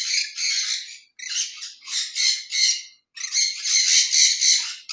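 Parrots squawking: a run of harsh, raspy screeches in quick succession, broken by brief pauses about a second in and around three seconds in.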